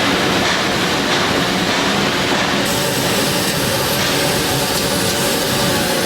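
Loud, steady mechanical noise of factory machinery running, with a low hum under a dense clatter.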